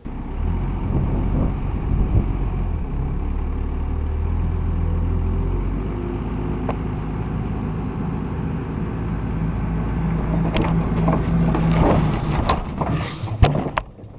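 A vehicle engine running steadily close by, its pitch shifting a few seconds in, with several sharp knocks and clatters near the end.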